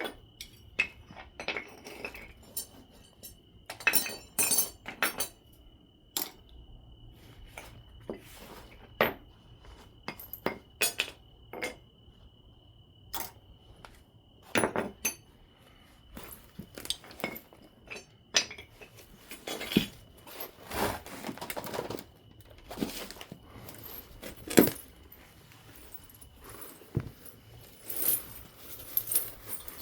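Obsidian being knapped into a biface: irregular sharp glassy clicks and clinks as flakes are struck or pressed off, with a stretch of scraping a little past the middle.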